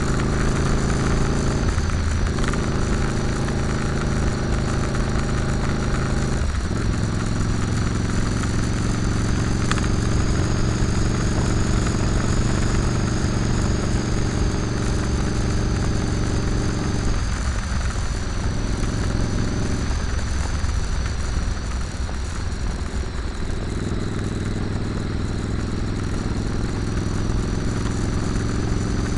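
Motorcycle engine running under way on the road, its note shifting in pitch several times as the throttle and gears change. There is a steady rushing noise underneath.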